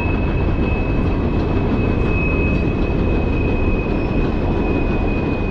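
Train running past: a loud, steady rumble with a thin, steady high whine over it.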